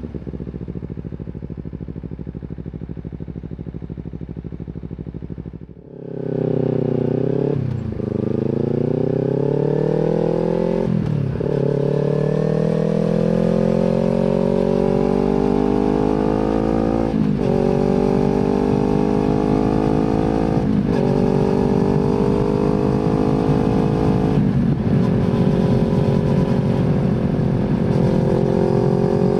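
Kawasaki Z250 parallel-twin running through an aftermarket slip-on exhaust. It holds a steady low note for about six seconds, then pulls away and accelerates up through the gears, its pitch climbing and dropping sharply at each of about five upshifts.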